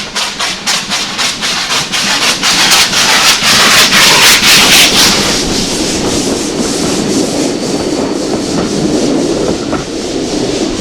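Steam locomotive passing close at speed, its exhaust beats coming about four a second and loudest about halfway through, followed by the steady rumble of its train rolling by.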